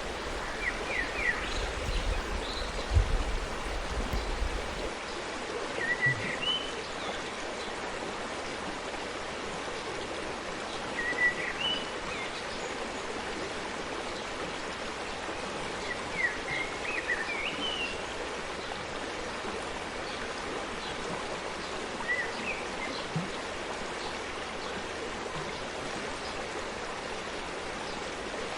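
Forest stream running steadily, with a bird giving short rising chirps about every five seconds. A low rumble sits under the water for the first few seconds.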